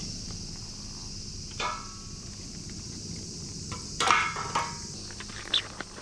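Firewood burning in a FUTUREFOX Solo fire pit, giving a few sharp cracks and knocks: one about a second and a half in, a cluster around four seconds, and one more near the end. A steady high-pitched hiss sits underneath.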